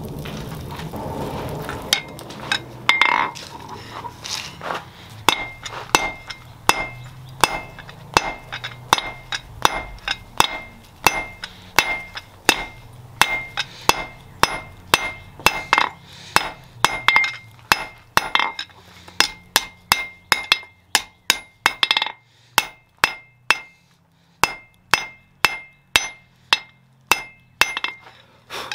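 Blacksmith's hand hammer striking steel on an anvil while forging a spear, about two blows a second, each with a bright metallic ring. The blows begin about two seconds in.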